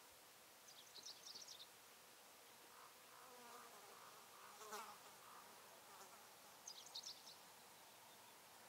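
Faint, quiet outdoor ambience: a small bird gives a short, high, rapid chirping trill twice, about a second in and again near the end, and a buzzing insect drones past in the middle.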